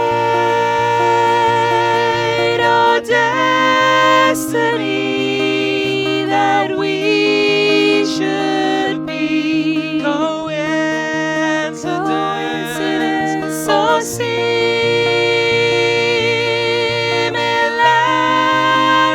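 Live acoustic song: voices holding long, wavering notes in harmony over a steady, plucked acoustic guitar line.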